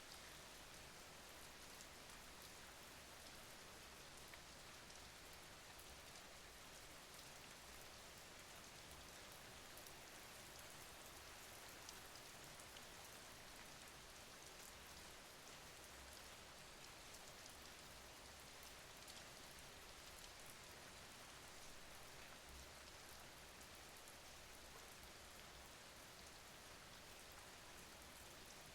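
Faint, steady rain: an even hiss with a fine patter of drops.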